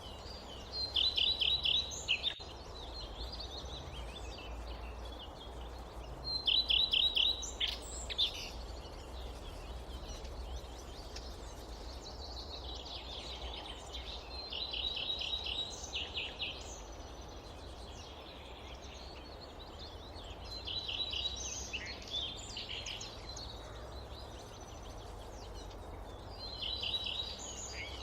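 A songbird repeating a short, fast trill of rapid notes every five to seven seconds, with fainter chirps between, over a steady low rumble of forest ambience.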